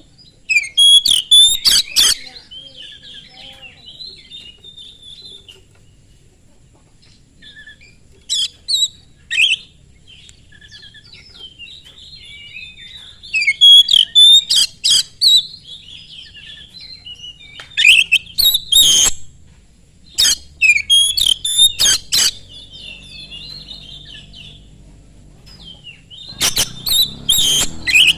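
Oriental magpie-robin (kacer) singing hard: a soft, running warble broken every few seconds by bursts of loud, sharp, piercing notes.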